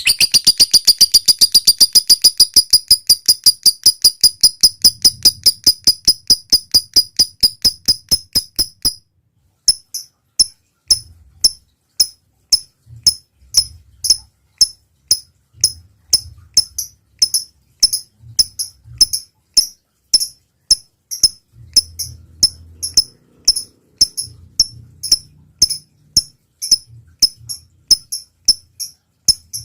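Lovebird giving rapid, sharp, high-pitched chip calls, about five a second for the first nine seconds, then after a brief pause in irregular runs of chips.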